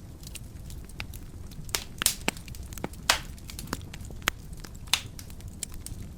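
Wood fire crackling in a fireplace: irregular sharp pops and snaps over a soft steady low rumble of the flames, with the loudest pops about two, three and five seconds in.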